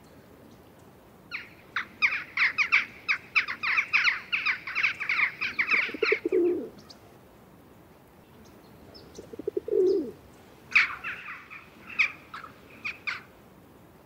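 Small birds chirping in quick, dense runs of high notes: one long run lasting several seconds in the first half and a shorter one near the end. In between, a low pulsing call sounds twice, about a second each.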